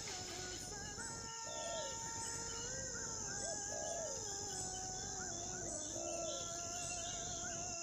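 Natural outdoor ambience: a steady high-pitched insect drone, with birds giving whistled calls, including one short rising-and-falling call repeated about every two seconds.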